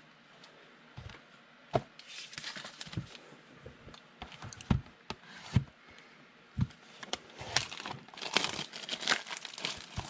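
Football trading card packs being torn open: foil wrappers crinkling and tearing, with irregular clicks and taps as the cards are handled, busier in the second half.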